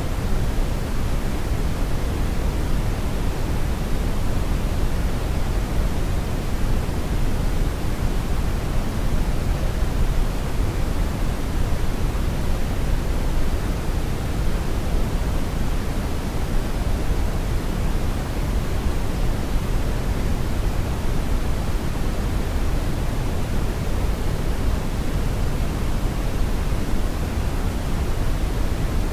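Brown noise: a steady, even rushing hiss, strongest in the low end and dull at the top, without change.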